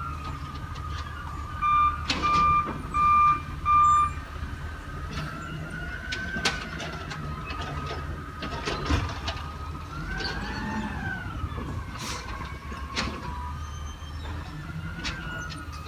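Garbage truck working: the engine runs under a high whine that rises and falls in pitch, with four loud backup-alarm beeps about two seconds in and scattered knocks and clanks.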